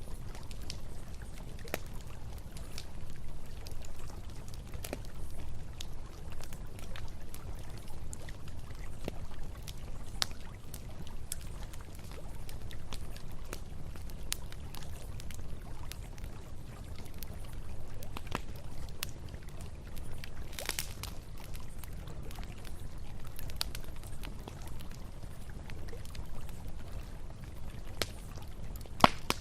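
Campfire crackling with scattered sharp pops over the steady low rush of a river, with one louder pop near the end.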